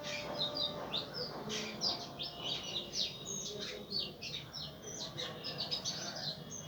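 Birds chirping: a fast, dense run of short high chirps and quick slurred notes, several a second, overlapping, over faint background noise.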